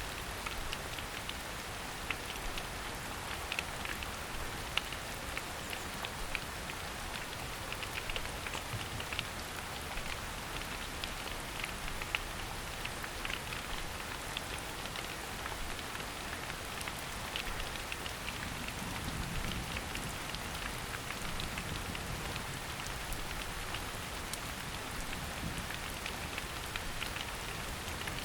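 Steady rain falling in a forest: an even hiss dotted with many small, sharp drop ticks.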